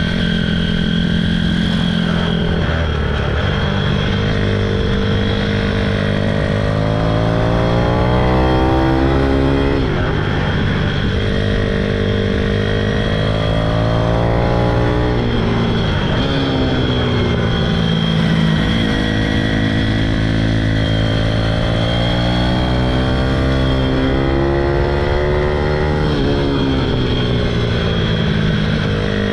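Pitom pit bike engine being ridden hard, its pitch climbing through the revs and dropping back again several times.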